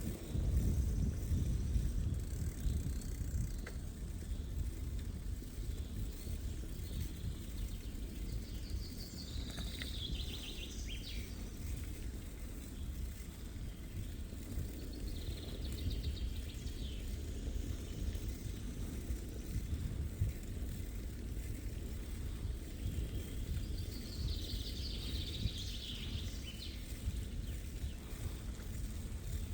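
Steady low rumble of a bicycle ride, with a songbird singing three short phrases: about nine seconds in, about fifteen seconds in, and near the end.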